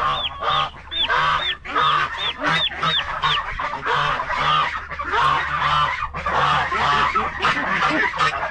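A flock of geese honking, many short calls following close on one another and overlapping, several a second, over a steady low hum.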